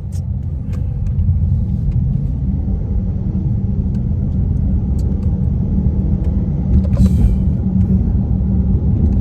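Car driving, heard from inside the cabin: a steady low engine and road rumble that grows a little louder over the first second or so, then holds. The engine is nearly stock, with only a drop-in K&N air filter, so it runs quietly.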